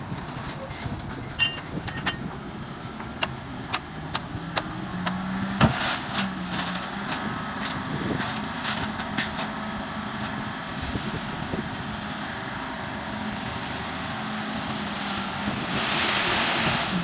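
Motor grader's diesel engine running steadily, with scattered sharp clicks and knocks throughout and a louder rushing noise near the end.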